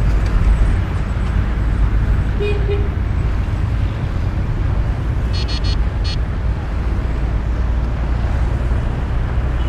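Steady low road rumble of a car being driven, heard from inside. A brief tone comes about two and a half seconds in, and a quick run of short high-pitched beeps comes a little past the middle.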